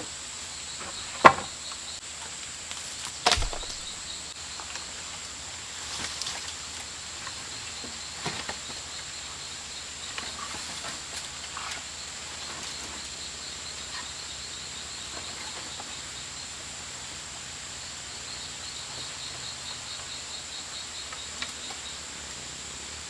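Insects droning and chirping: a steady high-pitched buzz, with pulsing trains of chirps a little lower. A few sharp knocks break in, the loudest about a second in and another about three seconds in.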